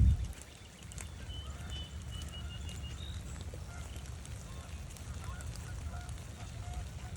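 Canada geese honking, a series of short repeated honks from about five seconds in, over a steady low rumble of wind on the microphone. A wind gust buffets the microphone right at the start, and a short run of high bird notes comes about two seconds in.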